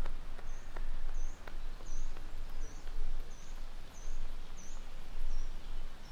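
A small songbird calling over and over, a short high chirp repeated about every two-thirds of a second, over a steady low rumble of outdoor background noise.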